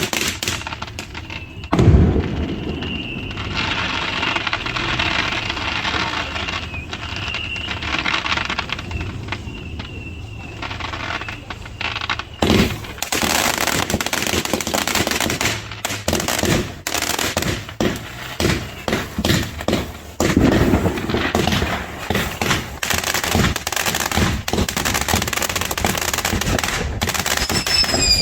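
Consumer fireworks from a fountain-and-missile display: a loud bang about two seconds in, then a steady hissing spray with faint whistling. From about halfway, a rapid string of sharp cracks and bangs follows.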